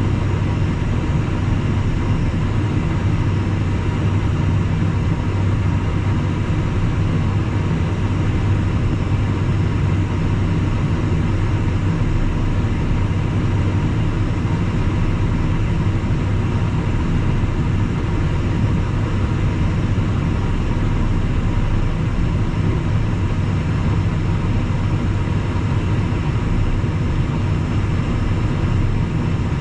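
Steady cabin drone of a Cessna Citation Mustang light jet: its twin turbofan engines and the airflow make an unchanging low rumble with faint steady tones above it.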